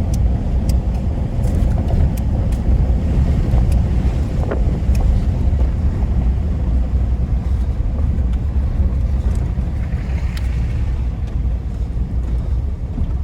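Steady low rumbling noise with a few faint ticks scattered through it.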